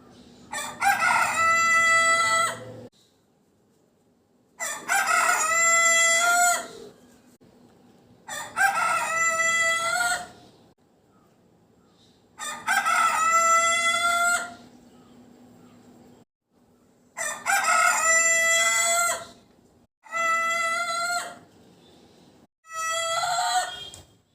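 A chicken crowing over and over, seven long pitched crows about every three to four seconds, the last two shorter.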